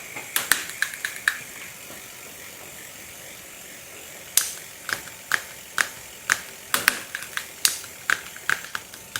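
Bicycle gear shifter's ratchet clicking as the lever is worked over and over: a few clicks, a pause of about three seconds, then a steady run of about two clicks a second. The shifter's internal click is sticking and not resetting even after spray lubricant.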